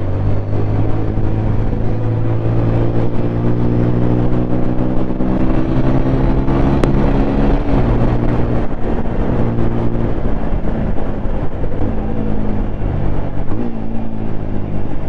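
Single-cylinder 200 cc motorcycle engine running under way at a steady note, with the throttle eased and the pitch dropping then recovering about halfway through, and further small changes in engine speed near the end.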